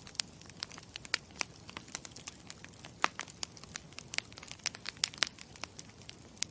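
Campfire crackling: burning wood popping and snapping in quick, irregular crackles over a low steady hiss.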